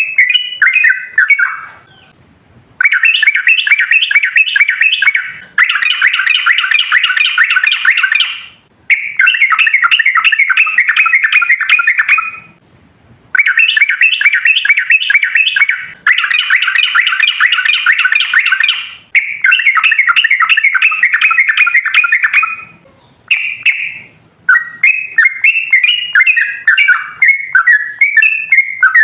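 Yellow-vented bulbul (trucukan) song: long runs of rapid, rolling chatter, each lasting about three seconds, with short breaks between them. Near the end it breaks into looser, separate bubbling notes.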